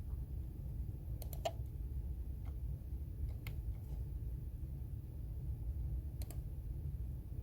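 A few scattered computer keyboard keystrokes, single taps and quick pairs a second or more apart, over a steady low room hum.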